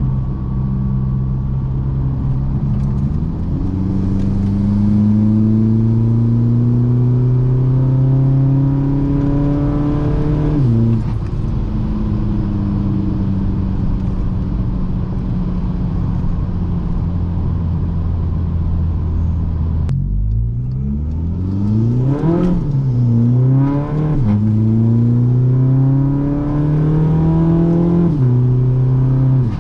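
Upgraded-turbo VW Mk6 GTD's 2.0 TDI common-rail diesel pulling under acceleration. The engine note climbs steadily for several seconds and falls back sharply, runs steady, then rises again in short runs with quick dips between, and a last long climb falls away near the end.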